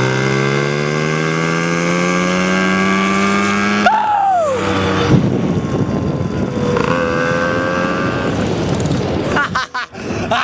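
Dirt bike engine pulling under throttle, its pitch climbing steadily for about four seconds, then dropping sharply as the throttle closes. After that it runs lower and rougher, with a few knocks near the end.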